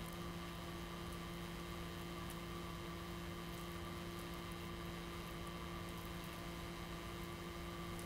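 CPU cooler fans running steadily: an even whooshing hum with a few faint steady whining tones.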